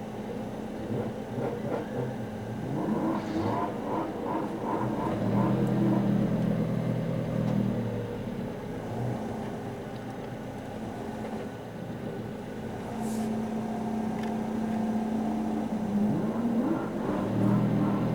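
Car engine running while driving, its note rising and falling with the revs and swelling louder twice.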